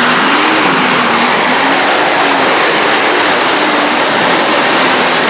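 Diesel super stock pulling tractor running hard at full throttle, a loud jet-like roar with a high steady turbo whine over it and the engine pitch rising and falling slightly.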